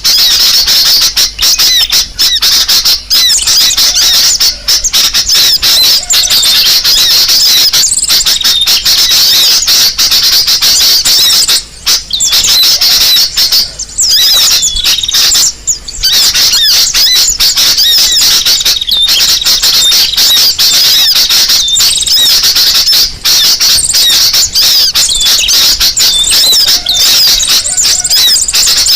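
Bird-lure recording of crimson sunbird calls: loud, dense, high-pitched chirping and twittering that runs almost without pause, with a few brief gaps about halfway through.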